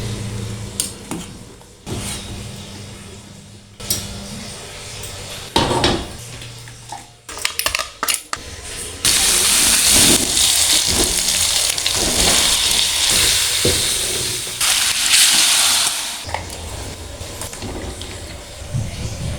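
Cooking utensils knocking and clinking against pots and pans, then a loud sizzle of food frying in hot oil that starts suddenly about halfway through and eases off a few seconds before the end.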